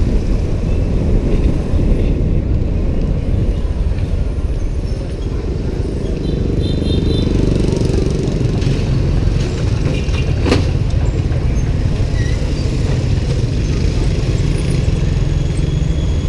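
Steady low rumble of road and wind noise from riding a motorbike, with a brief sharp click about ten seconds in.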